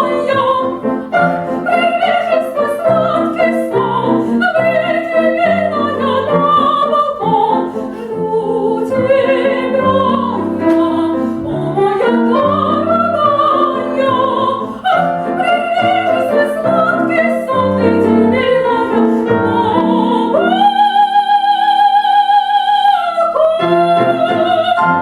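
Female classical singer performing in operatic style with grand piano accompaniment, her notes sung with vibrato. Near the end she holds one long high note for about three seconds, then sings a short closing phrase.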